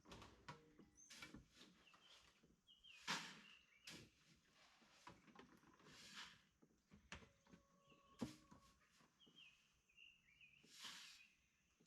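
Quiet outdoor background: short, faint bird chirps now and then, with a few soft scattered knocks.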